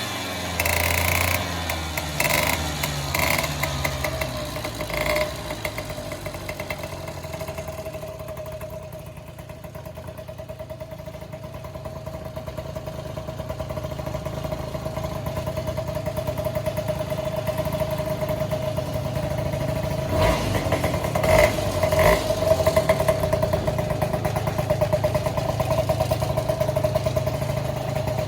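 Honda Joker 90 scooter's single-cylinder engine running through an aftermarket muffler, with a steady, evenly pulsing exhaust note. It briefly gets louder a few times about twenty seconds in, as if the throttle is blipped.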